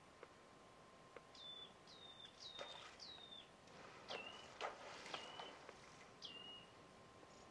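Faint bird calls: a series of about seven short whistles, each dropping steeply in pitch and then holding, over a quiet background with a few sharp clicks and a faint steady tone.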